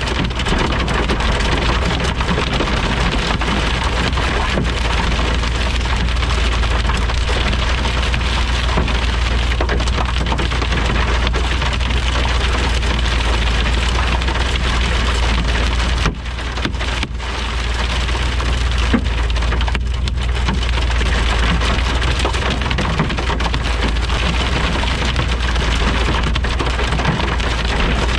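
Heavy thunderstorm rain pouring down as a dense, steady hiss, with a constant low rumble underneath; it briefly eases about sixteen seconds in.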